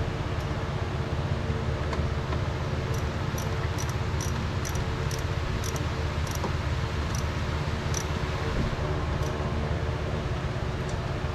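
Mitsubishi 4G64 2.4 L four-cylinder engine idling steadily, with faint light ticks over the middle of the stretch.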